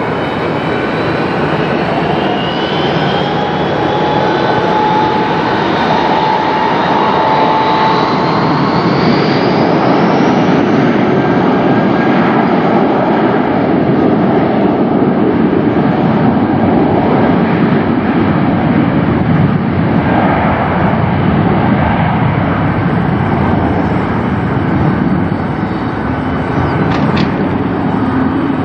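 Jet airliner engines at takeoff power: whining tones rise in pitch over the first ten seconds, then loud, steady jet engine noise.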